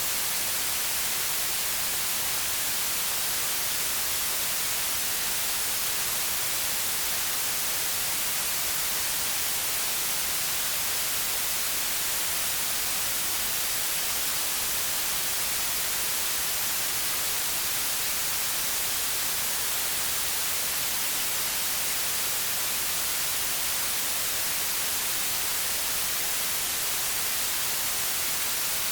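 Steady, unchanging white noise: an even hiss, bright in the highs, with no other sound.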